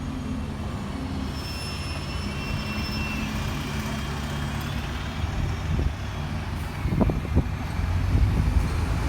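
A heavy vehicle running with a steady low engine rumble and a faint high whine, with a few short knocks near the end.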